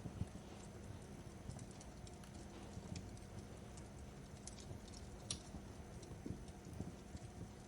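Crackling fire: a low steady rumble with scattered irregular pops and snaps, one sharper crack about five seconds in.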